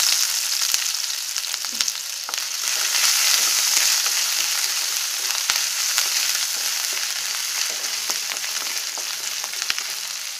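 Hot oil sizzling steadily in a pan as crushed ginger and garlic fry with chopped green chillies, with scattered clicks and scrapes of stirring.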